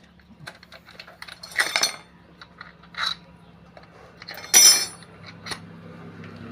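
Steel hand tools and small bolts clinking and clattering against each other and the engine casing: a few separate metallic clinks with lighter ticks between, the loudest about four and a half seconds in.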